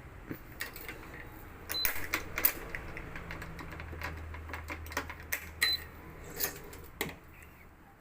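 Electronic badminton stringing machine at work: repeated clicks and taps of clamps and string, a low motor hum from about two to six seconds in as the electric tensioner pulls the string, and two short high beeps.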